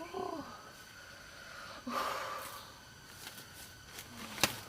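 Wild boar calling: a short grunting call that falls in pitch, then a snort about two seconds in.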